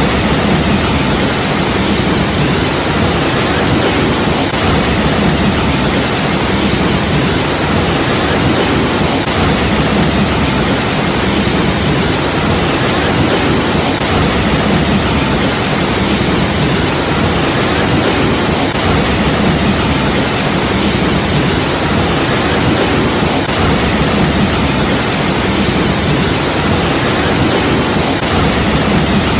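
Waterfall: a steady rush of falling water, loud and unchanging.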